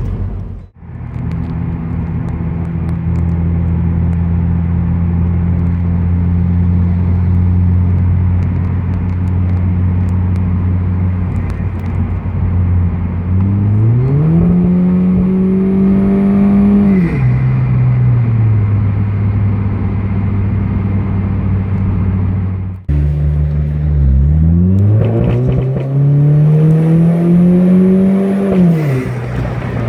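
Hyundai Genesis Coupe 2.0T's turbocharged four-cylinder engine and exhaust idling steadily, then revved twice: each rev rises, holds for a few seconds and falls back to idle.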